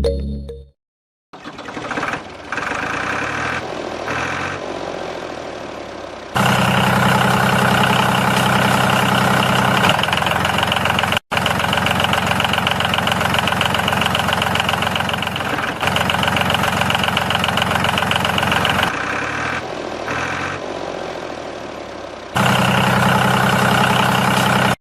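Small motor of a miniature DIY tractor running steadily. It comes in several spliced takes, growing much louder about six seconds in, cutting out for an instant partway through, and dropping back, then rising again near the end.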